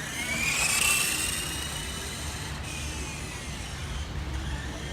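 The small 380 electric motor of an RC motorcycle whines as the bike speeds up. The pitch rises and is loudest about a second in, then fades. Fainter whines come later, one falling and one rising near the end, as the throttle changes.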